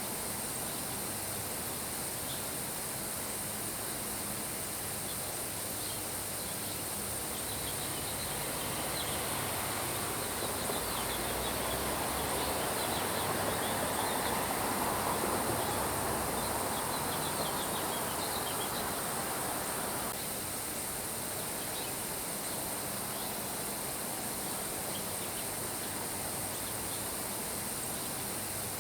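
Steady rain hiss with faint, scattered bird chirps. The rain swells louder for several seconds in the middle, then drops back abruptly about twenty seconds in.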